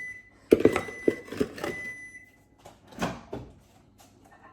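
Microwave oven beeping at the end of its 30-second run, a high steady beep sounding twice, with knocks and clatter of the door and kitchen handling in between.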